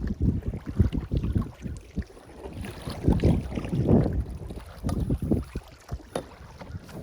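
Wind buffeting the microphone out on the water in a canoe, in gusts that swell and fade, with a few short knocks.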